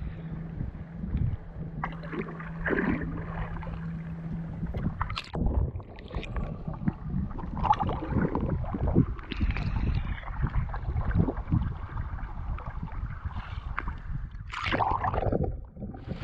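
Canoe being paddled: paddles dipping and splashing in the water, with irregular knocks and sloshing around the hull. A steady low hum runs under the first four seconds or so.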